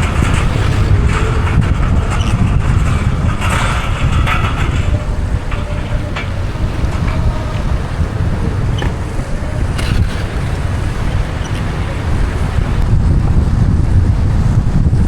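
Road and traffic noise from a car driving on wet streets in the rain: a steady low rumble with a hiss of tyres and wind, and a few brief louder swells as other vehicles pass.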